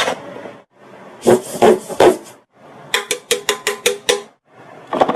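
A series of mouth-made sound effects: a sharp pop, a few dull thumps, then a fast run of about eight clicks over a held tone, and a dense rattling trill starting near the end.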